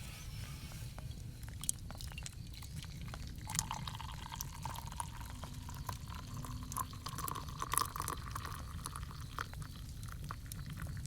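Liquid being poured into a container for about five seconds, starting about three and a half seconds in, the pitch rising slightly as it fills, amid scattered light clicks.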